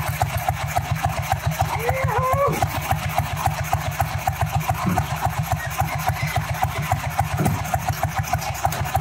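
Sanglas 500 single-cylinder motorcycle engine idling with an even, low beat of about eight firings a second.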